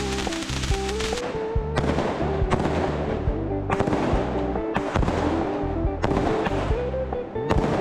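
Fireworks going off in a string of sharp bangs, about one every second or so, each with a fading crackle, under a pop song.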